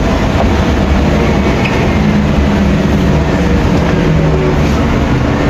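Scania N270UD OmniDekka double-decker bus running, its diesel engine and road noise heard steadily from on board.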